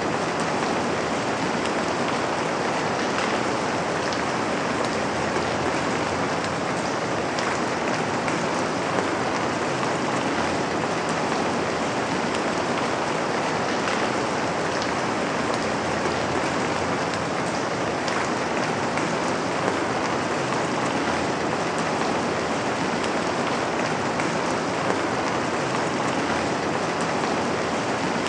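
Steady rain falling, with drops pattering on a window pane.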